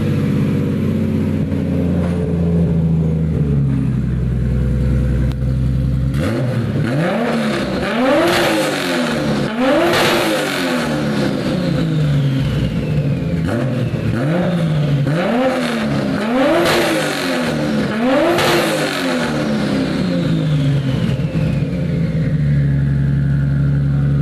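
Toyota 2JZ straight-six engine in a Nissan S13 idling, then revved over and over, each rev rising and falling in pitch about every one and a half to two seconds, before settling back to idle near the end. It is running through its newly fitted complete exhaust and intake on its first test after a custom wiring job.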